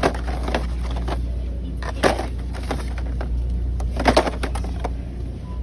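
Blister-packed toy monster trucks knocking and clattering against each other as they are rummaged through in a bin: a handful of sharp knocks over a steady low hum.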